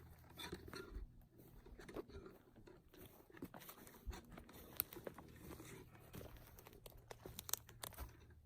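Faint, irregular crunching and rustling of leaf litter and twigs, with scattered sharp clicks.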